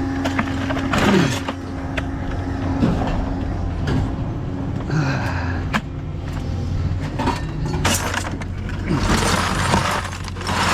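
Scrap metal clanking and clattering as it is tossed and dumped, several sharp knocks and rattles, over the steady low hum of an idling engine.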